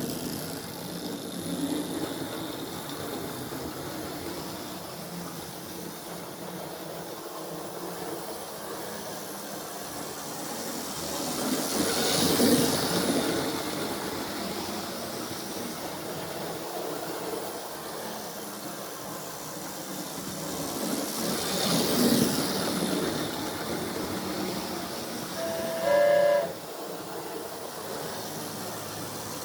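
Model steam train running round the layout, its running noise swelling twice as it passes close. It gives a short whistle near the end.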